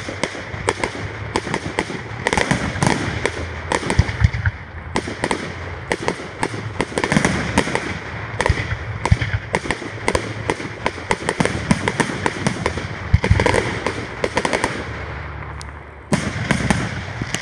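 Fireworks display: aerial shells bursting in a rapid, irregular run of bangs and crackle, easing briefly near the end before a fresh burst of bangs.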